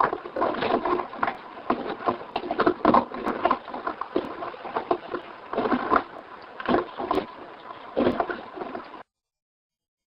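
Recorded footsteps crunching on gravel, played back as a steady, dull-topped crackle of irregular crunches. It cuts off abruptly to dead silence about nine seconds in.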